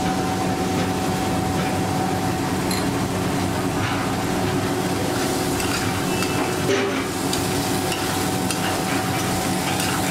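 Chopped onion, garlic paste and whole spices sizzling in mustard oil in a kadai, stirred and scraped with a flat metal spatula, over a steady background hum. The onions are being fried until they soften.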